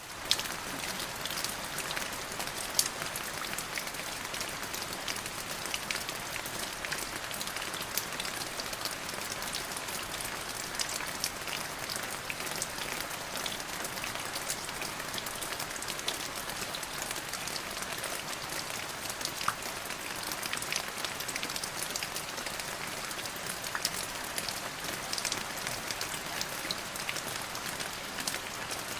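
Steady rain falling on a surface, an even hiss with many sharp individual drop ticks.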